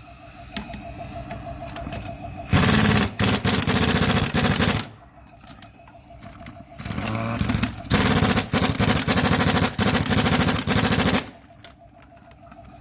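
Car engine idling, then revved twice for about two to three seconds each, with a loud, rapid rattling clatter while the revs are up before it drops back to idle. This rattle under revs is the engine noise being shown as a fault.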